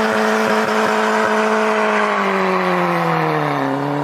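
Entop Mada 9 supercar's engine held at high revs while its rear wheels spin in a smoky burnout. The revs hold steady, sag about halfway through to a low point near the end, then pick up slightly.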